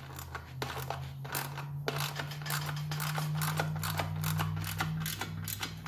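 Hand tools clicking and tapping on metal as the toilet's new mounting bolts are tightened down, many irregular sharp clicks, over a steady low hum.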